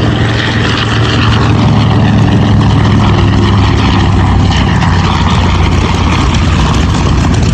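World War II piston-engined warbird's engine running loud and steady, a deep hum with a rough mechanical edge.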